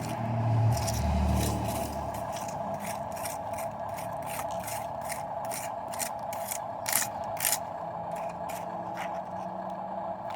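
Dump truck at work: a steady mechanical drone with a low engine rumble swelling in the first two seconds, and repeated short scrapes and rattles throughout, two louder ones about seven seconds in.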